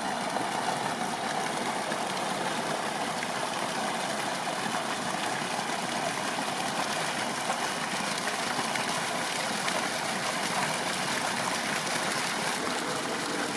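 Steady rushing of running water, even and unbroken, with no distinct splashes.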